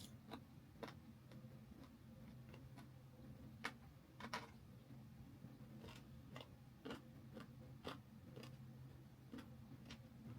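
Faint crunching and clicking of a person chewing and biting into chicken leg pieces, sharp irregular crunches about once or twice a second over a low steady hum.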